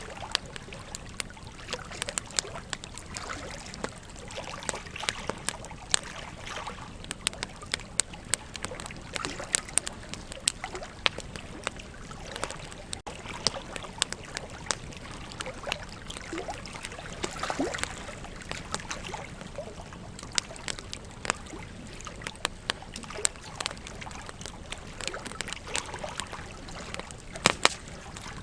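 Wood campfire crackling with irregular sharp pops and snaps, over a steady rush of flowing river water. A pair of louder pops comes near the end.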